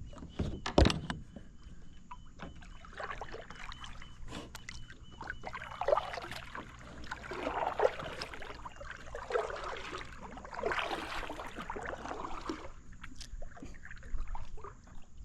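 A sharp knock on a fishing kayak about a second in, then a run of irregular rustling and splashing noises from movement in and around the kayak, which die down near the end.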